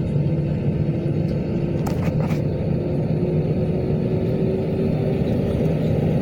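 Airbus A320 heard from inside the cabin during the takeoff run: a steady, loud rumble of engines and wheels, with a tone that slowly rises in pitch as the jet accelerates. Two short knocks come about two seconds in.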